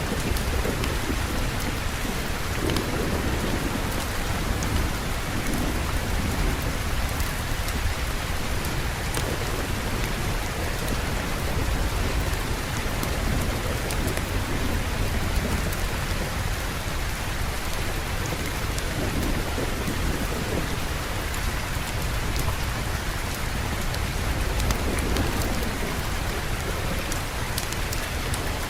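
Steady heavy rain hissing, with low rolling thunder that swells and fades several times underneath.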